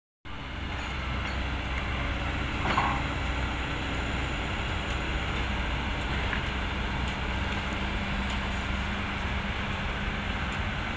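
Kobelco SK200 hydraulic excavator's diesel engine running steadily, with a brief clank about three seconds in.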